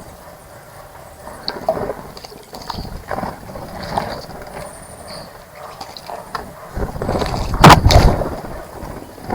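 Small birds splashing and fluttering their wings in a bird bath, the splashes coming in irregular bursts with a loud flurry about three-quarters of the way through. A few short high chirps come in between.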